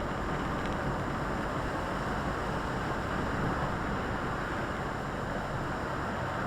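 Volvo FH articulated lorry on the move, heard from its cab: a steady rush of engine and road noise at an even level.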